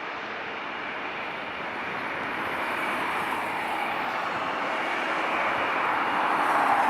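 Boeing 777 GE90 turbofan engines at high thrust: steady jet noise that grows gradually louder.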